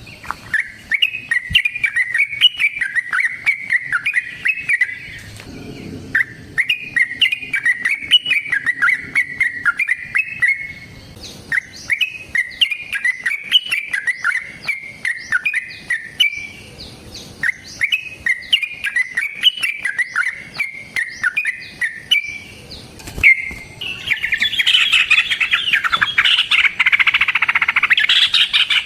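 Yellow-vented bulbul (trucukan) singing repeated phrases of quick bubbling chirps, each a few seconds long with short pauses between. Near the end it breaks into a louder, denser fast chatter.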